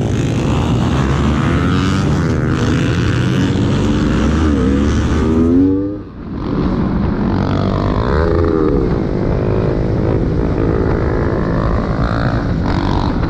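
Motorcycle engine running hard and revving, its pitch climbing in repeated steps. The sound drops out briefly about six seconds in, then the engine revs up and down again.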